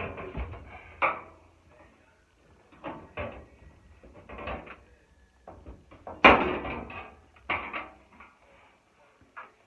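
Irregular knocks, clunks and scraping of the dryer's sheet-metal panels and parts being handled during disassembly, with one loud bang about six seconds in.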